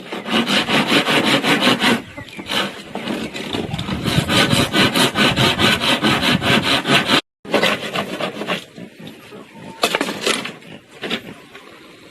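Hand saw cutting through wood in rapid back-and-forth strokes, about five a second. The sawing pauses about two seconds in, resumes, breaks off abruptly past seven seconds, then gives way to a few scattered strokes.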